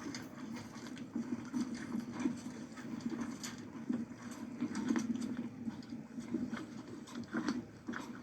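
Wind buffeting the microphone in uneven gusts, with scattered short clicks and knocks over it.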